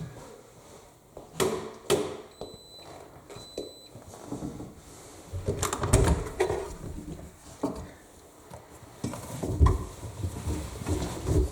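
AEG 7000 Series washing machine at the end of its cycle being unloaded. Two short high beeps come a few seconds in, among clicks and knocks from the door. Then come bursts of rustling and dull thumps as wet laundry is pulled out of the drum.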